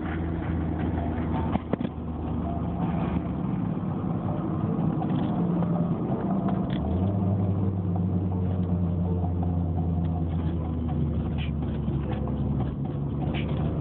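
1995 Toyota Celica GT's naturally aspirated 2.2-litre four-cylinder engine running steadily under way. A stronger, deeper drone comes in about seven seconds in.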